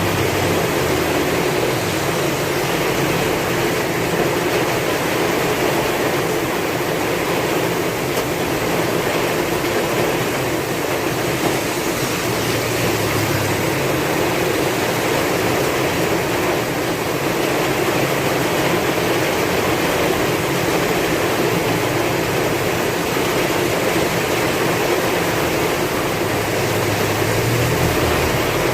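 Heavy rain and strong wind: a steady, dense wash of rain noise without a break.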